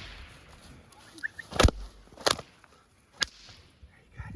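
A whip cracking three times, sharp single cracks a little under a second apart.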